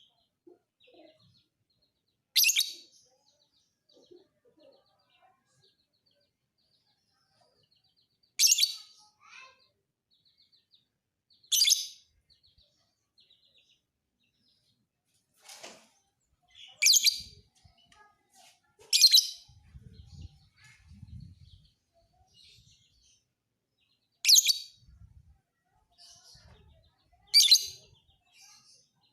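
Lovebird giving short, shrill, high calls, seven in all at irregular gaps of about two to six seconds, with faint soft chattering between them.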